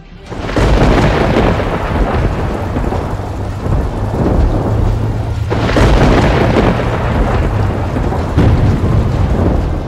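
Thunderstorm: rolling thunder over steady rain, building up about half a second in, with a second, sharper thunderclap about six seconds in.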